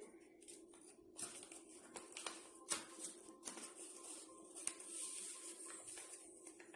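Paper rustling and crinkling in irregular small crackles as a square sheet is creased and folded by hand into an origami bird, faint over a steady low hum.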